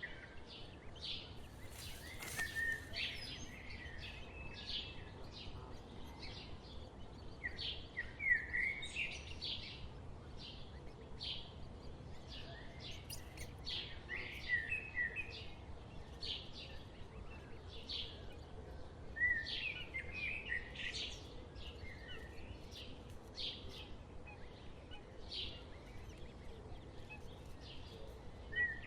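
Birds chirping: many short, high calls repeating, with a few curving notes, over a low steady background rumble.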